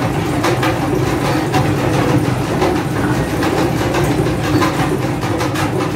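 Rail car running on track: a steady, loud rumble with a run of repeated clicks.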